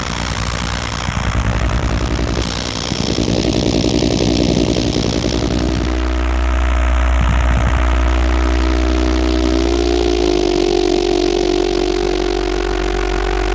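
Electronic noise-drone music from Bastl Kastle and Korg Volca Modular synthesizers: a low sustained bass tone and a chord of held tones over a hissing noise wash, the chord sliding slightly up in pitch about ten seconds in.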